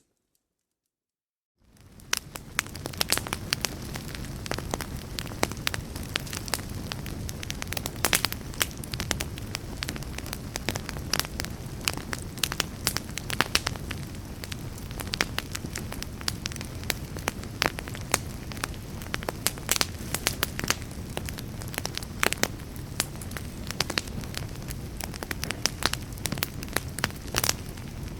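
Wood fire in a fireplace crackling, many sharp snaps over a steady low rumble of the flames. It fades in after about a second and a half of silence.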